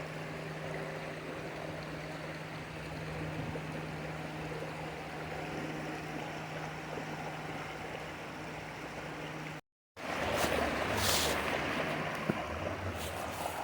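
Running water of a stream, a steady rushing with a faint low hum under it. It cuts out for a moment about ten seconds in, then comes back louder with a few sharp clicks.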